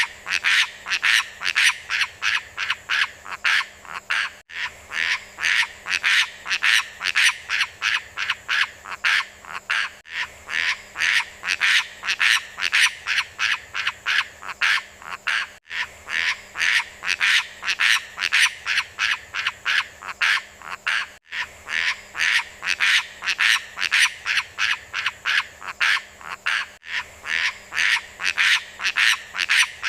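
Rapid repeated animal calls, about four a second, from a short recording looped every five to six seconds with a brief break at each join.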